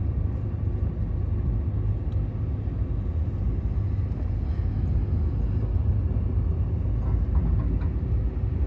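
Steady low rumble of a moving car heard from inside the cabin: road and tyre noise with the engine underneath, from a Honda Element driving on a sleet-covered road.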